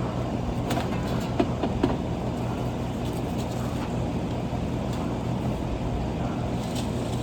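A steady low mechanical hum runs throughout. Over it, a few light metallic clicks and knocks come about one to two seconds in, as sheet-metal panels of an HVAC unit are handled.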